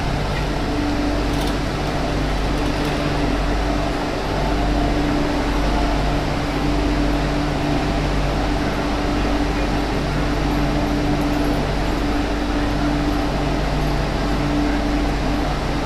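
Cabin running noise of an MTR Q-train in the tunnel: a steady rush of wheel-on-rail and air noise with a low hum and a steady tone that cuts in and out every second or two.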